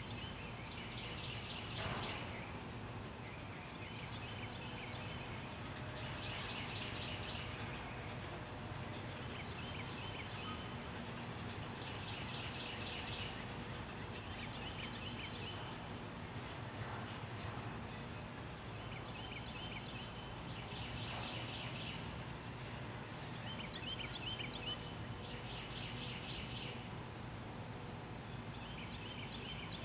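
A songbird singing short phrases of quick repeated notes, over and over every two to three seconds, over a steady low background rumble.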